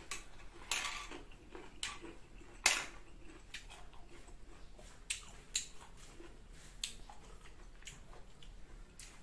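Close-up chewing and mouth sounds of crisp green mango, with scattered sharp clicks and light taps of a metal spoon. The sharpest click comes about two and a half seconds in.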